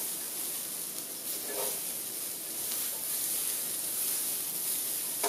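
Spiralised daikon radish frying in hot oil in a wok, a steady sizzle as the noodles are tossed with metal tongs.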